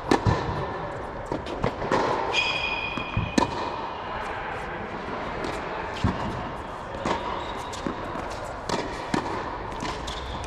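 Tennis balls being struck by rackets and bouncing on a court, a string of sharp irregular pops and thuds. A brief high squeal about two and a half seconds in.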